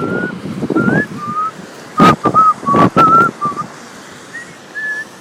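A person whistling a short, wandering tune of separate notes, over rustling walking and handling noise. Two loud knocks come about two and three seconds in.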